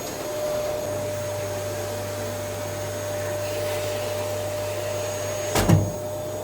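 Vacuum cleaner running steadily with a constant whine, and a single knock near the end.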